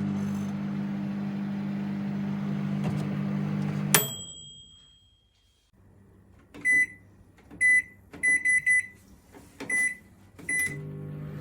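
Russell Hobbs 700 W digital microwave running with a steady low hum, which stops with a sharp click and a short ring about four seconds in. After a pause its control panel beeps as buttons are pressed, with single beeps and a quick run of three, and the hum starts again near the end.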